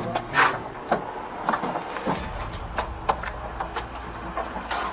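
Scattered sharp clicks and knocks, like equipment being handled, over a low steady vehicle engine hum that comes in about two seconds in.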